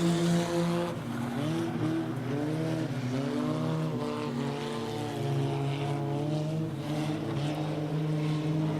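Engines of several junk race cars running at speed around the oval, their pitch rising and falling as they lift and accelerate through the turns.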